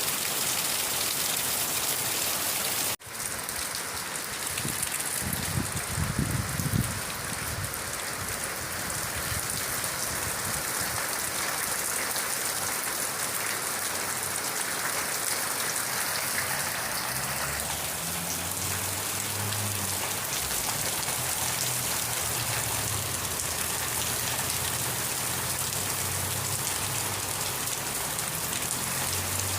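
Steady rain falling, an even hiss of drops. There is a brief drop in level about three seconds in, then a low rumble a few seconds later, and more low rumbling from the middle on.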